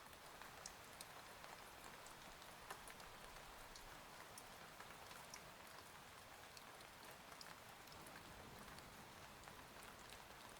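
Faint, steady rain ambience: an even hiss of rainfall with scattered small drip ticks, like rain on a cabin window and roof.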